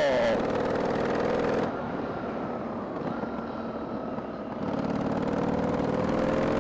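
Harley-Davidson Sportster 883's air-cooled V-twin engine running under way. It drops back about two seconds in, then picks up again near five seconds, its pitch rising slowly as it pulls.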